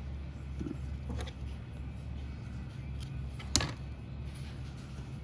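Fan palm leaf strips being handled and threaded through the weave, with a few faint rustles and one sharp crackle about three and a half seconds in, over a steady low hum.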